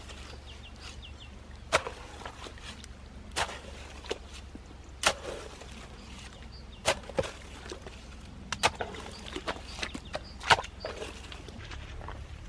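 Hand tool striking earth and stones while digging out a ditch: a sharp hit about every one and a half to two seconds, with lighter scrapes and knocks between.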